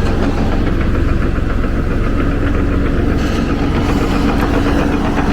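Tractor engine running steadily under load as it raises a man basket, with a steady whine joining about two seconds in.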